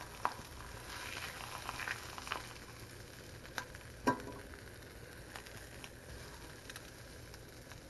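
Stingray pieces sizzling as they fry in butter in a cast-iron skillet: a steady hiss with scattered pops and clicks, the sharpest about four seconds in.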